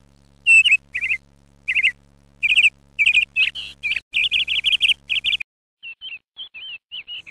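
Sparrow chirping: rapid clusters of short, bright chirps in quick bursts with short pauses between them. About six seconds in, the recording changes to a quieter, separate series of short chirps.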